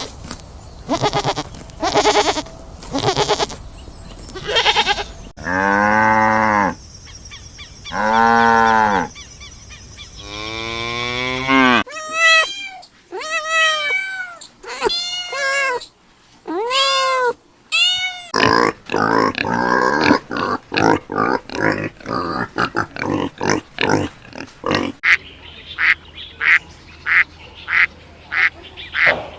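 A run of different farm-animal calls cut one after another: a few short repeated calls, then three long drawn-out calls, then a string of rising-and-falling cries, then rapid grunting and chattering near the end.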